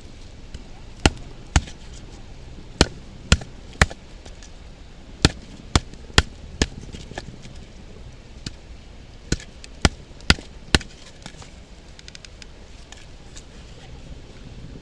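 Batoning: a Mora knife's spine struck hard to drive the blade into a log and split it, giving about a dozen sharp knocks in bursts of two to four that stop a little after halfway.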